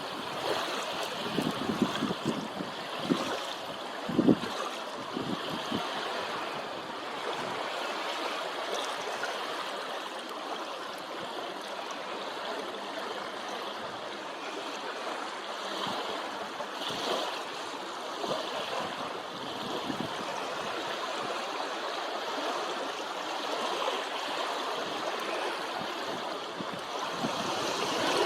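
Wind-driven waves lapping on a lake with a steady rush of wind, and gusts buffeting the microphone during the first few seconds.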